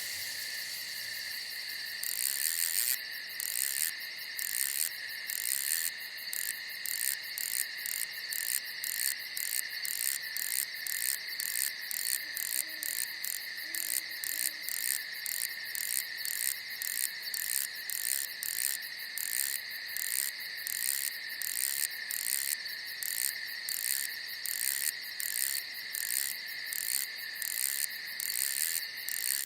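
Night insect chorus of crickets: a steady high trill throughout, joined about two seconds in by an even, rhythmic high-pitched chirping of about two chirps a second.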